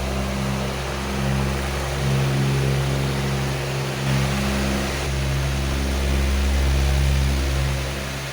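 A powerful electric fan running steadily: a rush of air over a low motor hum that swells and eases slightly.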